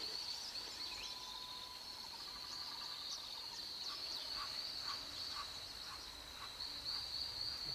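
Forest insect chorus: a steady high-pitched buzz that pulses at the start and again near the end, with scattered short chirps over it.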